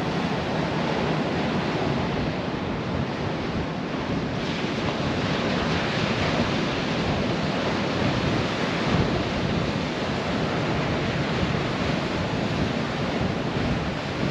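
Ocean surf rushing steadily, with wind blowing on the microphone.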